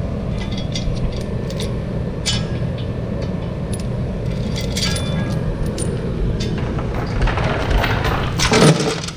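Metal tools and bolts clinking and clanking against the steel planetary gear housing during teardown, over a steady low machine hum. About eight seconds in, a louder rushing burst rises and cuts off.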